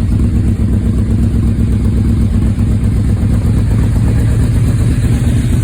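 Yamaha Royal Star Venture's V4 engine idling steadily through aftermarket exhaust pipes, a low, even, rapid pulsing.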